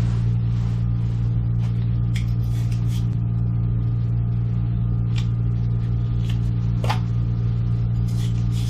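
A steady low electrical or motor hum, with scattered light clicks and taps from handling pipe fittings; the sharpest tap comes about seven seconds in.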